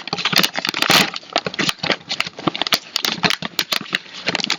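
Plastic snack bag crinkling and crackling as it is opened and handled: a dense, irregular run of sharp clicks.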